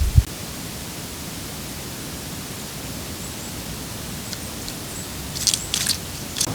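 Steady woodland background hiss with a few faint, brief high bird chirps. A short run of crackling rustles comes near the end.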